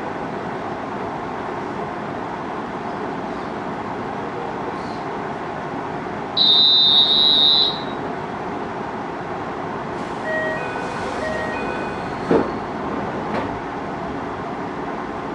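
Steady hum inside a JR Hokkaido 733-series electric commuter train standing at a station platform. About six seconds in, a loud high-pitched buzzer sounds for about a second and a half; a few short chime tones follow, then a single thud near the end.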